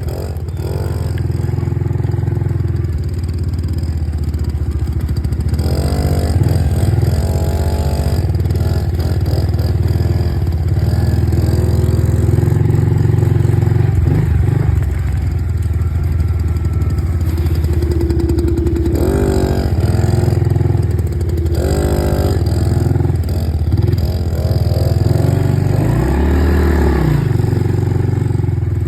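Dirt bike engine running while riding over rough ground, revving up and back down several times.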